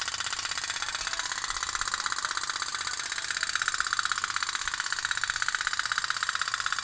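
Toy otok-otok (pop-pop) boat's little steam engine popping in a rapid, even rhythm.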